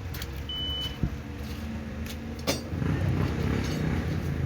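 Motor engines running as a steady low rumble, with a short high beep about half a second in and a couple of brief knocks.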